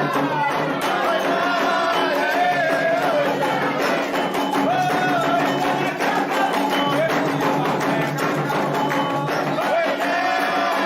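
Candomblé atabaque drums playing a steady rhythm under a sung chant for the orixá Oxumaré.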